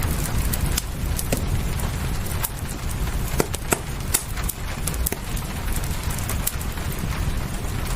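Wood fire crackling, with irregular sharp pops and snaps, over a steady hiss of rain and a constant low rumble.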